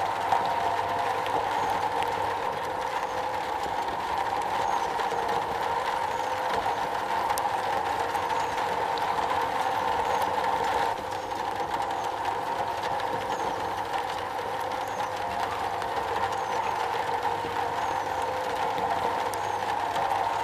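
Steady rain falling on a metal roof: a dense, even patter of drops with scattered sharper ticks, dipping slightly in level about halfway through.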